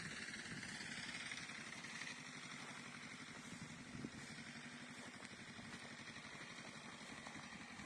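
Faint, steady small engine running with a rapid, even low pulse.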